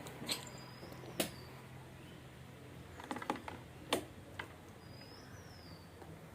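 Scattered light clicks and taps, about half a dozen, with a cluster near the middle, over a faint steady low hum.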